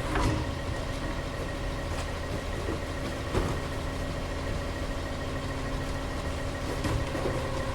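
Heavy garbage truck's engine idling steadily with a constant hum, and a light knock about three and a half seconds in.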